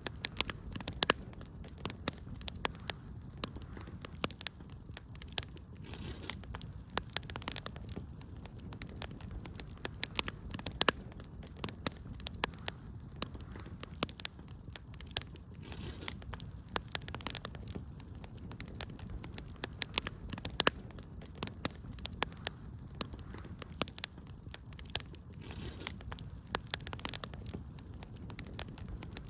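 Wood fire in a fireplace crackling, with frequent irregular sharp pops and snaps over a low steady rush of flame.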